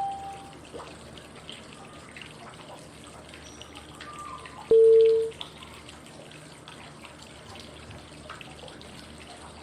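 Steady running-water white noise with short cue tones marking the five-second breathing phases: one fading just after the start, and a louder, lower tone about five seconds in.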